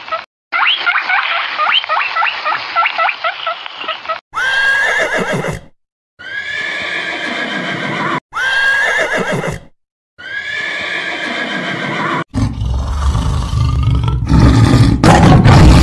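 Rapid high squeaking for the first few seconds, then four horse whinnies one after another, each a high call that falls away. About twelve seconds in comes a tiger's low growling roar, loudest near the end.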